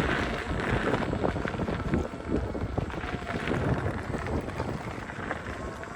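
Wind buffeting the microphone and tyre rumble from a Begode (Gotway) electric unicycle being ridden at speed, with frequent small knocks and rattles from the ride.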